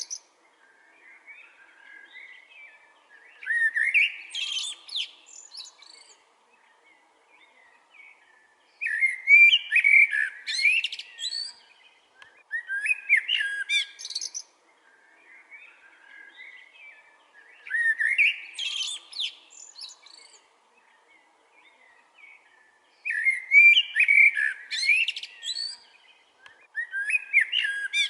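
Songbird singing in repeated warbled phrases of two to three seconds, with a new phrase every four to five seconds and short quiet gaps between.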